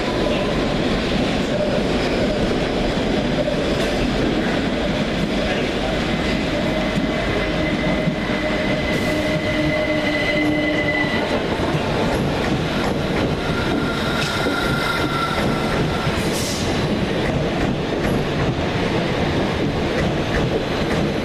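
Passenger train running, heard from inside the carriage: a steady rumble with wheel noise, and drawn-out high squealing tones that come and go for a few seconds at a time.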